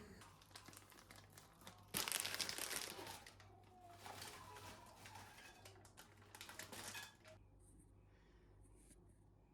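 Crinkling and rustling of a crinkly wrapper or packaging being handled, loudest about two seconds in, stopping about seven seconds in.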